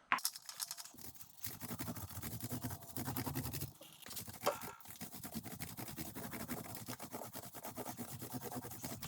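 Small 4-inch paint roller with a 3/8-inch nap cover rolling gloss paint onto a drywall patch: a steady, fine sticky crackle as the wet nap moves back and forth over the wall.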